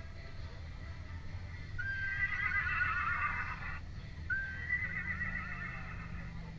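Two whinnying neighs, the first about two seconds long and the second shorter. Each opens on a brief steady note, then wavers up and down. A steady low hum runs underneath.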